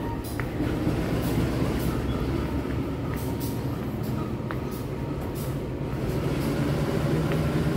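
Passenger train's economy coaches rolling past along the station platform as the train pulls out: a steady low rumble with a few faint clicks.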